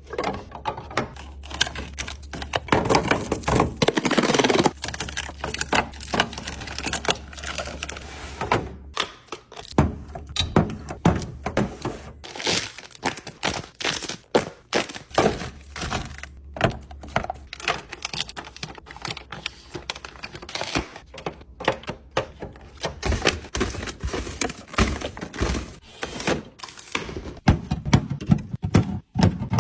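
Objects being arranged and put in place: a steady run of light knocks, clicks and thuds as items are set down and handled, with some crinkling of packaging.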